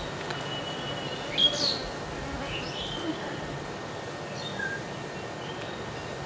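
Birds chirping in short, high calls over a steady low background noise, with the sharpest chirp about one and a half seconds in.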